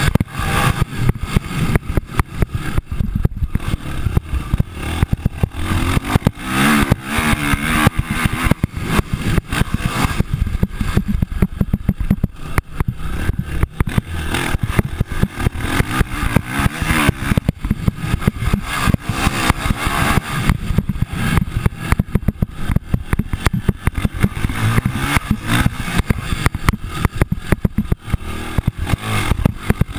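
Motocross dirt bikes revving and accelerating on a dirt track. The engine note rises and falls unevenly throughout.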